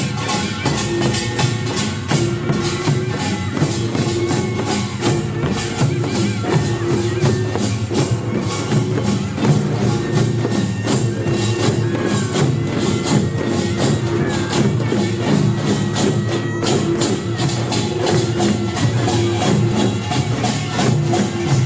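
Korean pungmul percussion band playing a fast, dense rhythm: kkwaenggwari small gongs clanging over janggu hourglass drums and buk barrel drums, with a jing gong ringing again and again underneath.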